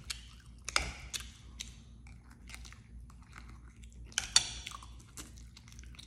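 A person chewing a mouthful of soft food close to the microphone, with scattered mouth clicks and smacks; the sharpest clicks come about a second in and again about four seconds in.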